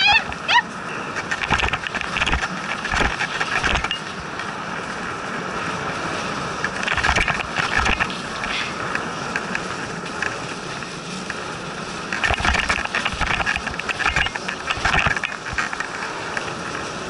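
Dog sled in motion on a snow trail: a steady hiss of the runners over snow, with irregular knocks and rattles from the sled.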